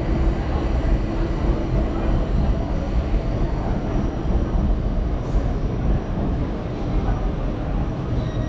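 Electric passenger train moving along the station platform, a steady rumble of wheels on the track.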